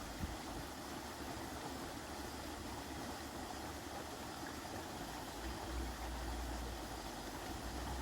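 Steady rain falling in the forest, an even hiss, with a low rumble coming in about two-thirds of the way through.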